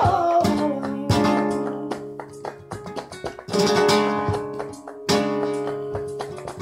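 Flamenco-style acoustic guitar strumming and plucking an instrumental passage between sung lines of a Spanish song. A held, wavering sung note trails off just at the start.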